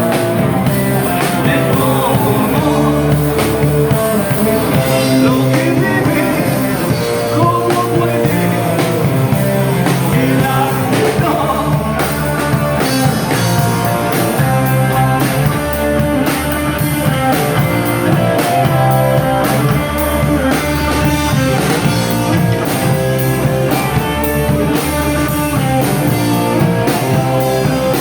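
Rock band playing live, with electric guitar, drums and singing.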